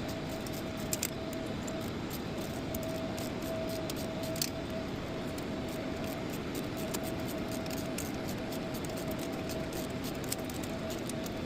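Steady mechanical hum with one constant tone running under it, and a few light metallic clicks and clinks of parts and clamps being handled on an aircraft engine.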